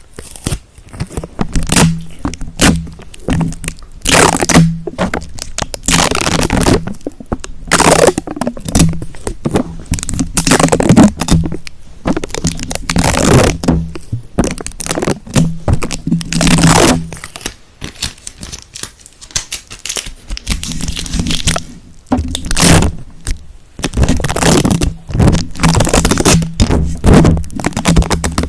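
Close-miked ASMR trigger sounds: irregular scratching and scraping strokes, each up to about a second long, with short pauses between them.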